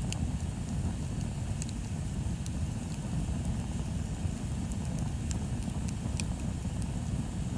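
Wood bonfire burning: a steady low rumble with sharp crackles and pops scattered through, the strongest about six seconds in.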